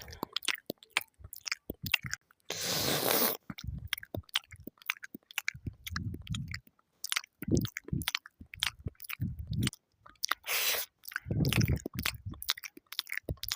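Close-miked ASMR eating: a person chewing and biting food, with irregular clicky mouth sounds and a few longer crunchy bursts, about three seconds in and again about eleven seconds in.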